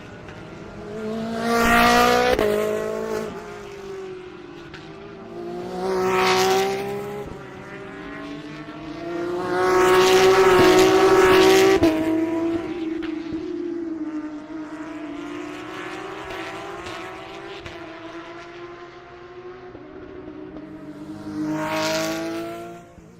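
GT3 race cars passing at speed one after another, engines swelling loud as each goes by and fading away. Four passes peak about 2, 6 and 22 seconds in, with a longer loud stretch around the middle.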